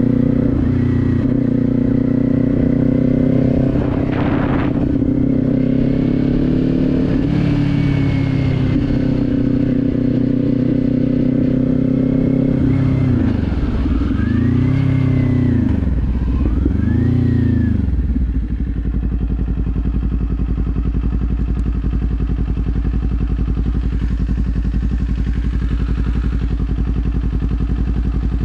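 Kawasaki Z400 parallel-twin engine running while riding, its pitch rising and falling twice, then settling to a steady low idle for the last ten seconds or so.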